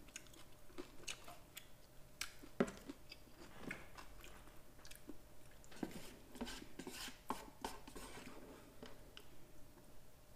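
Quiet eating sounds of a person chewing instant curry cup noodles, with scattered small clicks and wet mouth noises.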